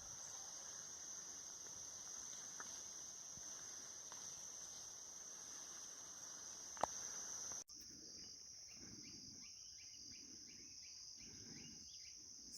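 Faint, steady, high-pitched chorus of insects chirring without pause. There is a single sharp click a little past halfway, and an abrupt break about two-thirds through, after which the chorus carries on.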